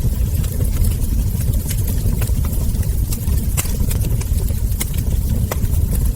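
Wood fire crackling: frequent irregular sharp pops and snaps of burning logs and embers over a steady low rumble.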